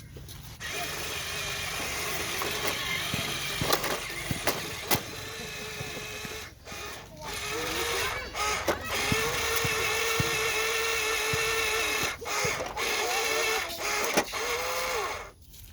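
Huina RC dump truck's electric motor and gearbox whining steadily, stopping and starting again several times with brief dips in pitch and a few sharp clicks.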